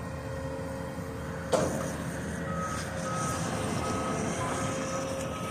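Heavy demolition machine's diesel engine running steadily, with a sharp knock about a second and a half in. From about two and a half seconds in, its reversing alarm beeps repeatedly as it backs up.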